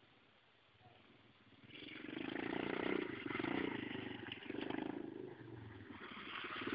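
Pit bike's small single-cylinder engine running: it comes in out of near quiet about two seconds in and grows loud, then rises and falls several times as the bike is ridden.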